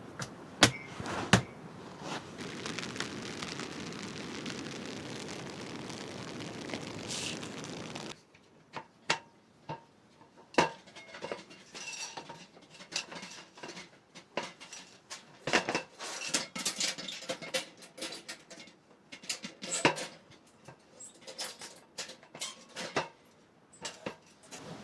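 Dishes and utensils clinking and knocking irregularly during camp cooking. For about the first eight seconds a steady hiss runs under a few sharp knocks, then stops suddenly.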